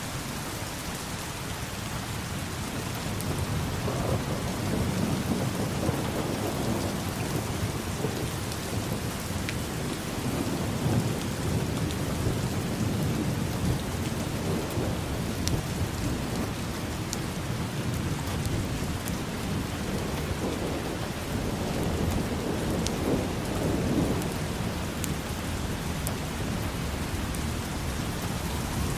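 Steady rain falling on hard surfaces, with low rolling thunder that swells and fades several times, loudest a few seconds in, around the middle and again near two-thirds through.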